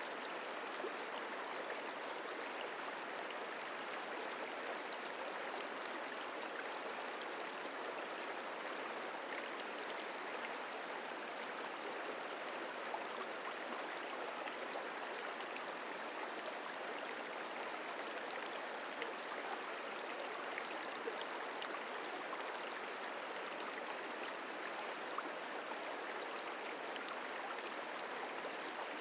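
Merced River flowing: a steady, even rush of water over rocks.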